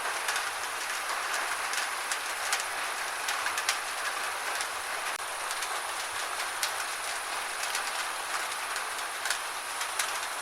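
Gentle rain falling steadily: an even hiss with scattered sharp taps of single drops.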